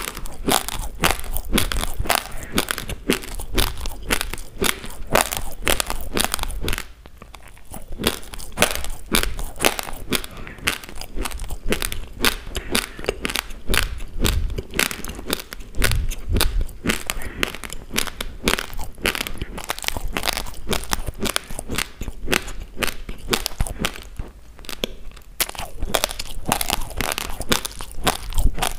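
Close-miked crunching and chewing of uncooked basmati rice grains: a dense, rapid run of sharp crunches, with a short lull about seven seconds in.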